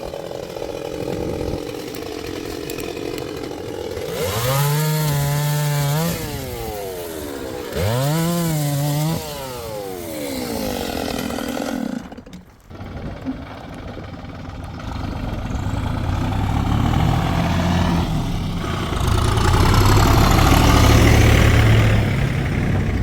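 Two-stroke chainsaw revved twice, the pitch climbing, holding briefly, then falling away each time. After a short drop, a lower, rougher engine sound builds and grows louder toward the end.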